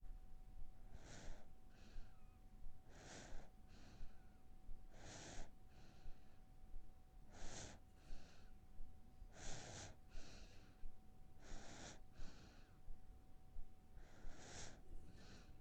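A person breathing slowly and audibly in a steady rhythm: about one breath cycle every two seconds, each a stronger breath followed by a softer one, seven in all. A faint steady hum runs under it.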